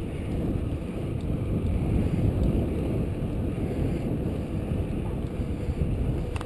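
Wind buffeting the microphone and rolling noise from a moving bicycle ride, a steady low rumble that cuts off suddenly at the end.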